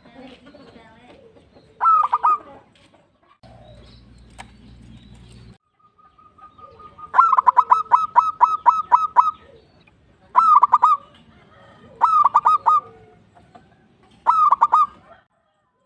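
Zebra dove (perkutut) cooing in repeated phrases of quick staccato notes. The longest phrase comes about seven seconds in, led by a held note, and shorter phrases follow every couple of seconds.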